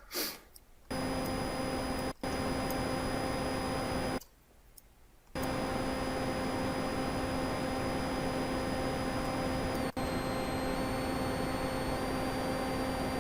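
Synthesized computer-fan sound from Reason's Thor synth: a steady hiss of noise with several held tones, a low hum plus high whines. It cuts out briefly near the start and for about a second in the middle. Around ten seconds in, the high whining tones step to new pitches.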